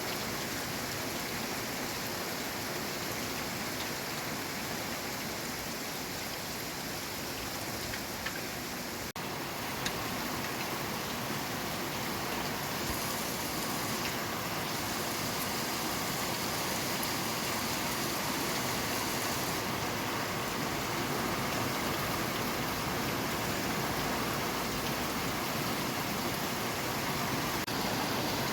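Steady rain falling, an even hiss of drops, with a momentary dropout about nine seconds in, after which it is slightly louder.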